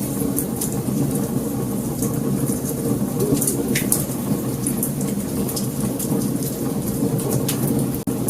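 Wood fire burning: a steady low roar with frequent sharp crackles and pops from the burning wood. The sound drops out for an instant near the end.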